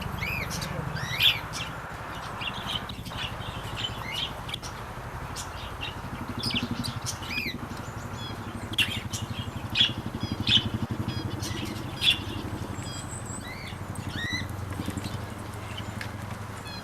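Aviary birds chirping and calling: many short high chirps and a few rising and falling call notes, over a low steady background rumble.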